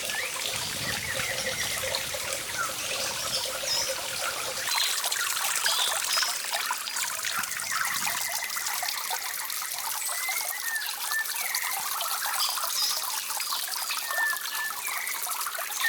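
Water trickling steadily, with short high chirps scattered over it.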